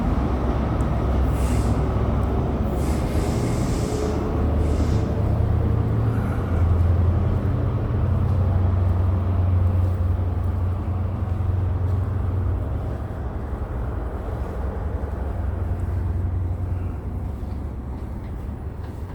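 Diesel freight train running with a steady low engine drone, with a few short air hisses in the first five seconds, the drone easing off slightly toward the end.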